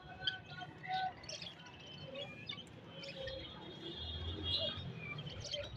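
Budgerigars chirping and warbling, a busy stream of short, overlapping chirps.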